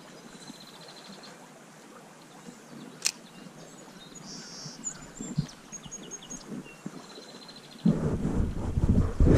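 Songbirds chirping and trilling faintly over a quiet outdoor background, with a single sharp click about three seconds in. Near the end, a loud rough rumbling of noise on the microphone takes over.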